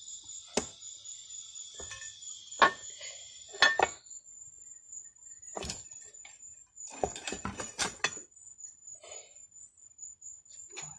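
Metal clanks and knocks of a steel bar being worked into a manual tire bead breaker: single hits spread over the first few seconds, then a quick cluster of knocks later on. A steady high-pitched pulsing tone runs underneath.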